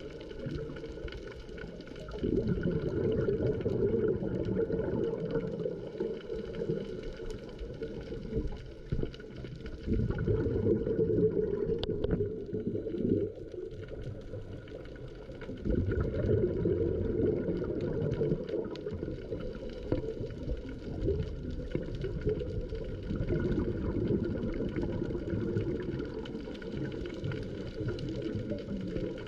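Underwater sound through a camera housing: a scuba diver's exhaled regulator bubbles rumbling and gurgling in long surges of several seconds each, over a faint steady hum.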